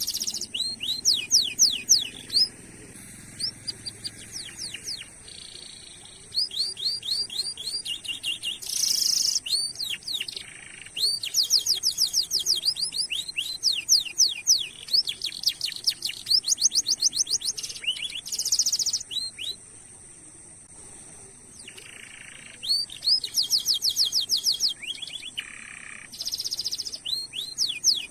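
Domestic canary singing: fast rolling trills of repeated down-slurred notes in long phrases, with short pauses between them, over a steady thin high tone.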